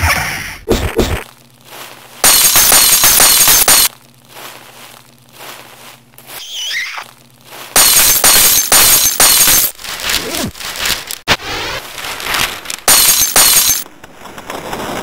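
Loud bursts of harsh crackling noise that start and cut off abruptly, four or five times. Between them are quieter stretches with a low steady hum.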